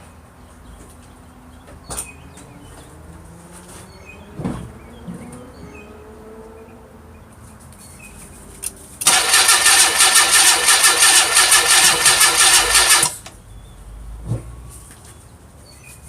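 1990 Mazda Miata's 1.6-litre four-cylinder cranking on the starter for about four seconds, pulsing evenly at about four beats a second, without catching, then the key is released. A few sharp knocks come before and after the cranking. The owner takes the no-start for a lack of fuel, since he believes it has spark.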